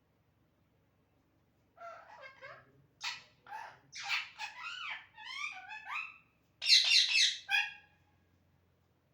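Pet parrot calling, a run of short chattering calls that bend up and down in pitch, starting about two seconds in, with the loudest, harshest burst of squawks near the end.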